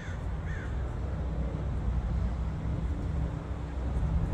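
A bird calling twice with short falling calls near the start, over a steady low rumble.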